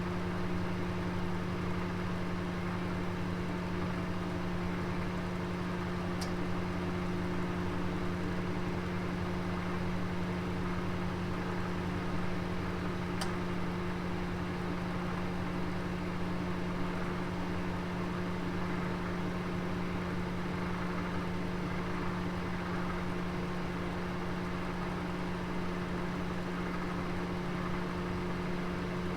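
Oven running with a steady hum and noise, a roast cooking inside; two faint ticks about six and thirteen seconds in.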